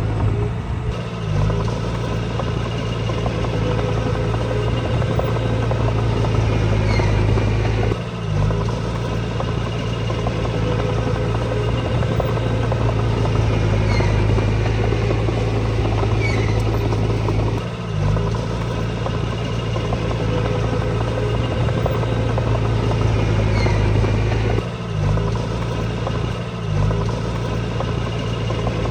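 Diesel engine of heavy earthmoving machinery (a small bulldozer or dump truck) running steadily under load, its note dipping briefly a few times.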